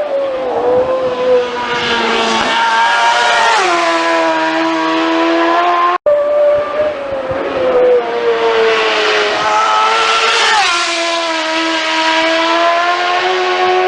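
Superbike racing motorcycles passing at full race speed, their high engine note dropping sharply in pitch as each goes by. There are two passes, with a hard break between them about six seconds in.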